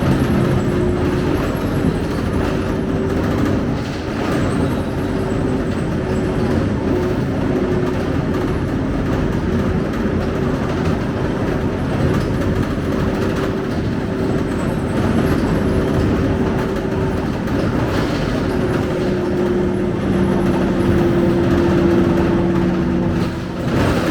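Scania K270UB bus's diesel engine and drivetrain running on the move, a steady hum over road rumble, with the pitch of the drone shifting about two-thirds of the way through.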